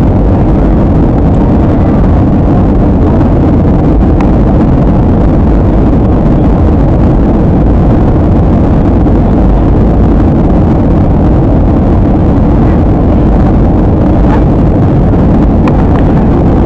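Jet airliner cabin noise in flight: a steady, loud rush of engine and airflow sound.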